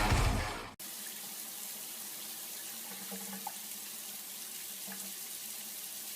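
Loud music cuts off under a second in, giving way to the steady hiss of water running from a tap.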